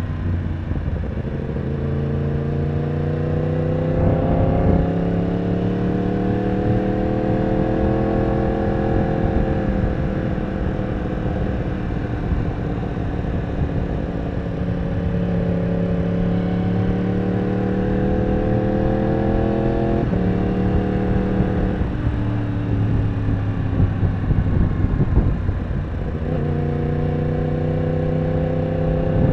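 Yamaha R1 sport bike's inline-four engine under way, its pitch climbing and falling several times as the rider speeds up and slows. There are sudden steps in pitch about five seconds in, twice around the two-thirds mark and again near the end, as the gears change.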